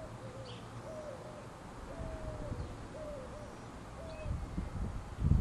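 A bird's low hooting calls, a series of short falling notes repeated roughly once a second, with faint high chirps from other birds. Low thumps come in near the end.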